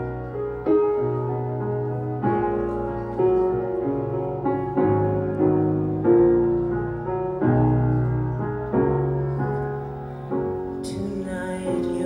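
Piano playing slow, sustained chords, a new chord with a low bass note struck about every second. A soft hiss joins near the end.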